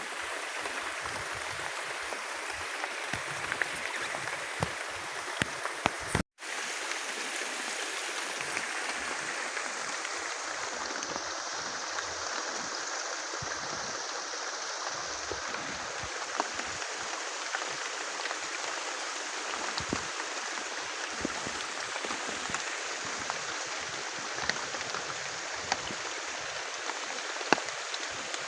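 Heavy rain falling steadily in forest, a dense hiss with many individual drops ticking on leaves and surfaces. The sound cuts out for an instant about six seconds in.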